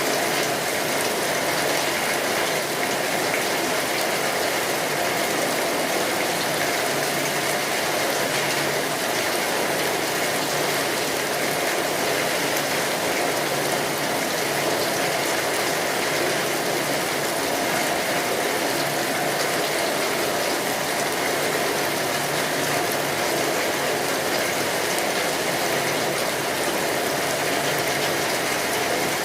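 Rain falling steadily on a tin roof, a dense, unbroken wash of drops.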